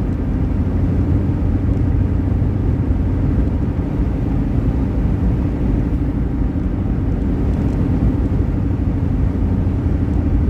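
Jeep driving at highway speed, heard from inside the cabin: a steady rumble of engine and road noise.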